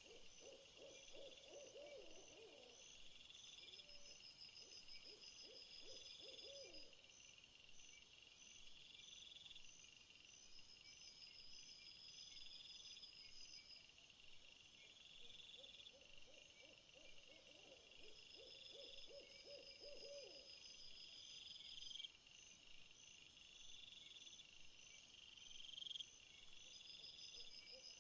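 Faint night-time nature ambience: insects chirping in a steady, pulsing chorus, with a lower wavering animal call that comes and goes in several runs.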